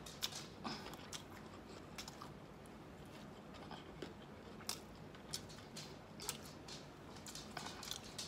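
A person chewing food close to the microphone, with faint, scattered mouth clicks, smacks and small crunches.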